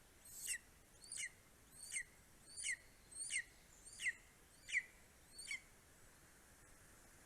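Greater spotted eagle calling at the nest: a series of about eight thin, high-pitched calls, each sliding downward, repeated roughly every 0.7 s, stopping a little before the end.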